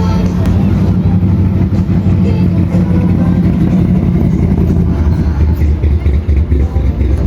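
A classic car's engine running with a low, steady note as the car drives off. The low engine sound grows stronger in the last couple of seconds.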